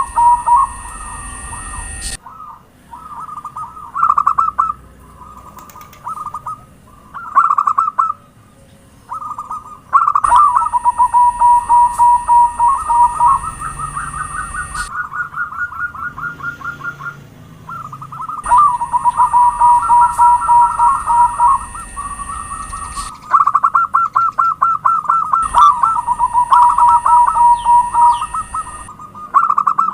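Zebra dove (perkutut) song: repeated phrases of rapid stuttering coo notes and held cooing tones, one phrase after another, in several spliced recordings with changing background hiss.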